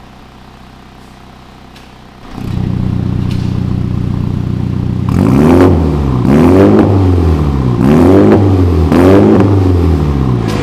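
Mini John Cooper Works GP3's turbocharged four-cylinder engine through an aftermarket Blaze exhaust. It idles, getting much louder about two seconds in, then is revved four times in a row, each rev rising and falling in pitch.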